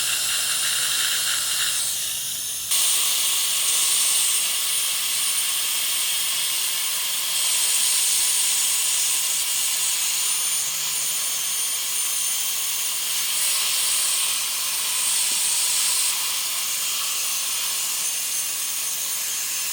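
High-speed dental handpiece running on the teeth with its water spray: a steady high hiss with a faint thin whine. It drops briefly about two seconds in, then comes back louder and runs on, swelling a little now and then.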